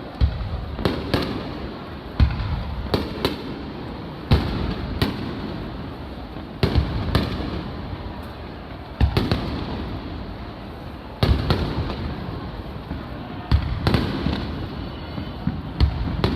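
Aerial fireworks shells bursting overhead in quick succession, a sharp boom every second or so, each followed by a rumbling echo and crackle.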